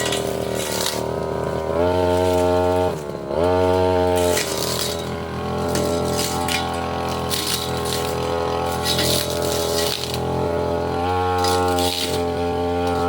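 Brush cutter engine running at high revs, its note dipping briefly about three seconds in and picking back up, with clinks and rattles of the Stamvick blade striking brush and stalks.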